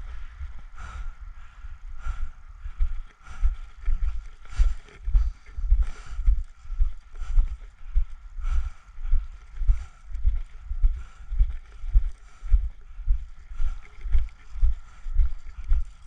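Footsteps of a player walking at a steady pace, about two steps a second, each step a low thud with a light brush of ground cover, carried through a body-worn camera.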